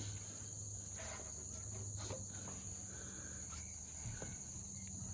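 Steady, high-pitched insect chirring, with a faint low hum beneath and a few light clicks.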